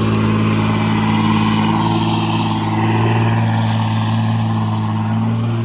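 Car engine held at steady high revs during a burnout, its drive tyres spinning without grip and adding a rough hiss over the engine note.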